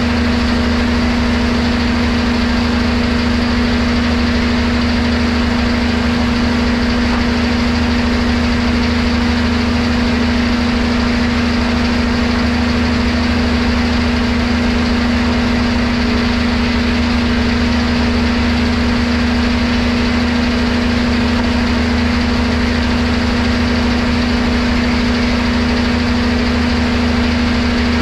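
Machinery running steadily with an even hum and a constant pitch, unchanging throughout with no sign of a cut or change in load.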